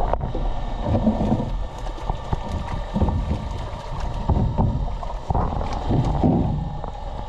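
Small fishing boat on open water: wind buffeting the microphone with a low rumble, and repeated knocks about once a second.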